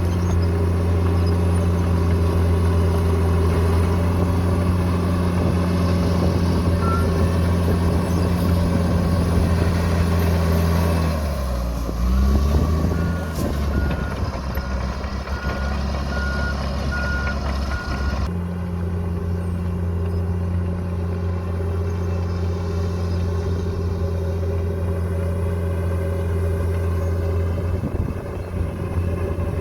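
Heavy diesel engine of a bulldozer running steadily at working speed, its note dipping and shifting about a third of the way in. Midway a reversing alarm beeps at an even pace for about five seconds, then the sound changes abruptly and the engine drone carries on.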